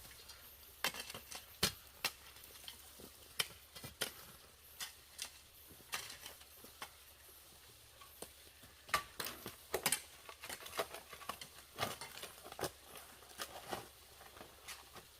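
Irregular light taps and clicks, a few a second and uneven in spacing, with louder clusters about two, four, nine to ten and twelve seconds in.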